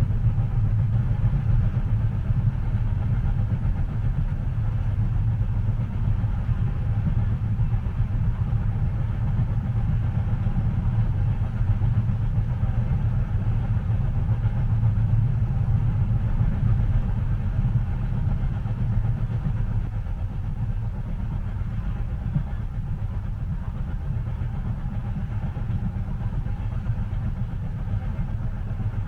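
Train heard from inside the passenger cabin: a steady low rumble, easing slightly about twenty seconds in.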